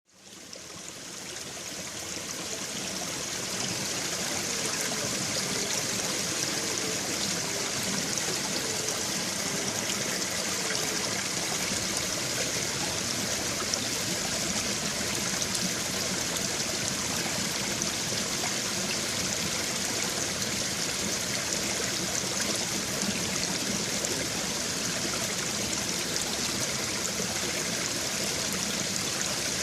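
A babbling brook: a steady rush of flowing water, fading in from silence over the first few seconds.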